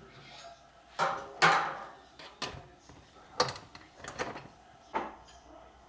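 A series of about six sharp knocks and bumps, as of household objects or a door or drawer being handled, with the loudest about a second and a half in.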